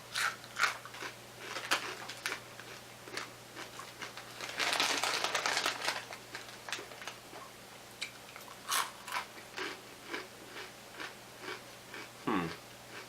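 Doritos 3D puffed corn snacks being bitten and chewed up close: a run of short, sharp crunches. About four and a half seconds in there is a second and a half of louder crinkly rustling.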